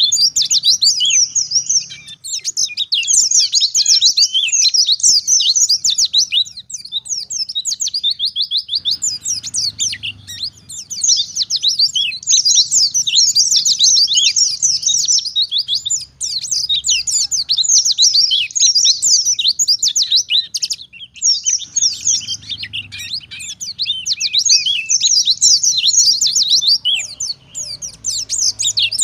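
A pleci (white-eye) singing a long, fast stream of high twittering chirps in phrases, breaking off briefly every several seconds. This is the rapid-fire wild-type 'ngalas nembak' song.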